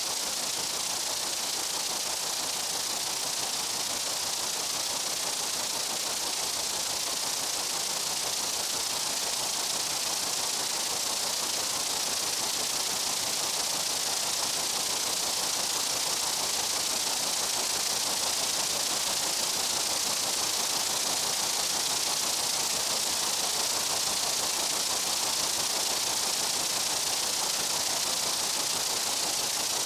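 Steady high-pitched buzzing of many meadow insects blending into one even hiss, with no single insect standing out.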